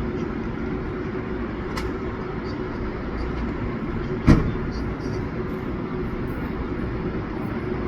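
Steady low mechanical hum, with one sharp knock about four seconds in.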